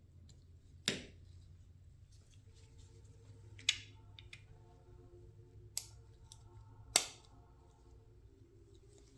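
Four sharp metallic clicks and clinks of small metal parts and hand tools being handled during reassembly of a small-engine carburetor, over a faint low hum.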